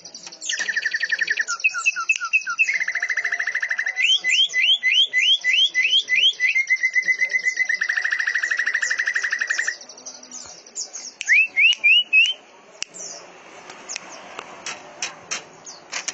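Caged songbirds singing fast, overlapping song: long rapid rattling trills, runs of quick rising whistled notes, and high chattering over the top. The trills stop about ten seconds in, leaving a few rising whistles and scattered sharp chips.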